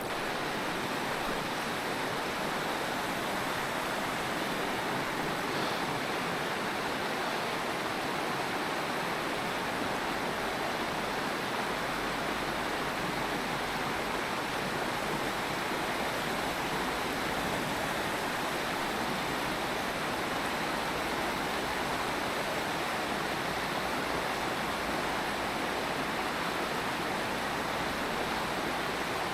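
Mountain stream water rushing over rocks in a steady, unbroken hiss.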